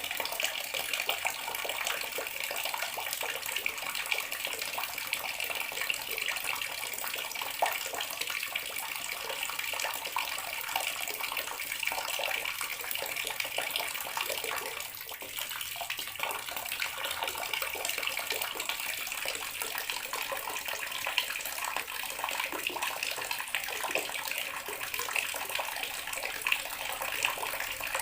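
Bathroom water tap running steadily, a constant stream of water splashing into the basin below.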